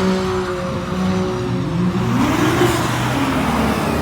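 Car engine revving up and easing off as a car drives past close by, over the steady note of other engines idling.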